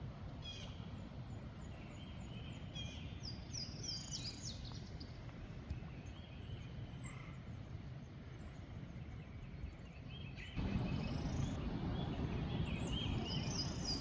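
Songbirds singing, with repeated quick chirping phrases, over a steady low outdoor rumble. About ten and a half seconds in, the rumble abruptly becomes louder.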